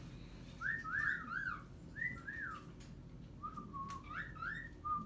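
Pet bird whistling: three runs of short clear whistle notes, each rising and falling, with brief pauses between the runs.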